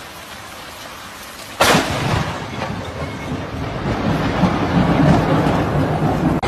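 Steady rain hiss, then a sudden sharp thunderclap from a close lightning strike about a second and a half in, followed by rumbling thunder over the rain.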